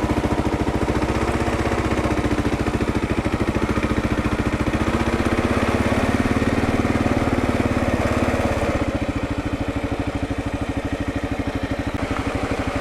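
Kawasaki KLR650's single-cylinder engine running at low revs in an even, pulsing beat on a steep downhill. The note rises a little around the middle, then eases off about nine seconds in.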